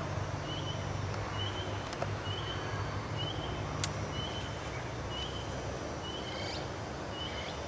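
Steady outdoor background noise with a low hum. Over it, a bird gives a short high chirp about once a second, and there is one brief very high squeak a little before the middle.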